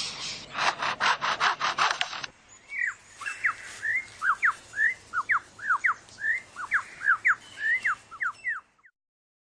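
Superb lyrebird mimicking a chainsaw with a fast rasping rattle that stops about two seconds in. It then gives a quick run of short, sharp whistled notes that swoop up and down, and cuts off near the end.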